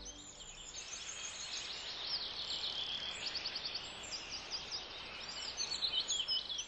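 Songbirds chirping and trilling together: a dense chorus of high, quick calls that grows a little louder near the end.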